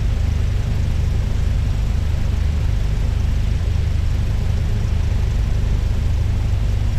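Cessna 172's piston engine running steadily, a constant low drone with no change in pitch.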